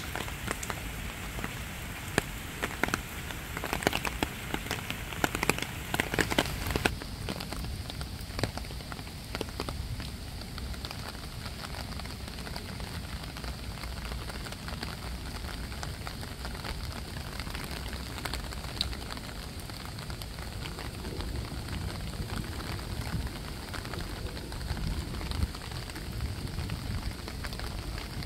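Water from a splash pad's sprays and fountains falling and splashing in a steady patter like rain, with a burst of sharper splashes and clicks in the first several seconds.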